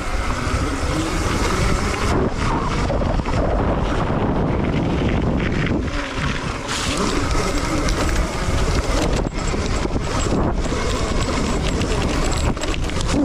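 Dirt bike being ridden hard on a timed lap, its motor running under heavy wind buffeting the microphone.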